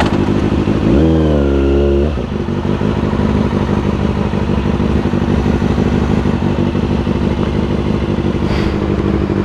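Motorcycle engine idling steadily, with one short engine rev about a second in that climbs, holds briefly and drops back to idle.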